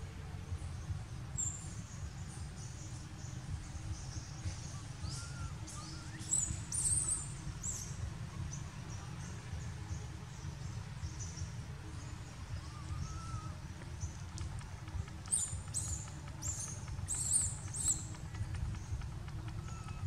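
Small birds chirping in short high calls, in bursts about six seconds in and again from about fifteen to eighteen seconds, over a steady low rumble.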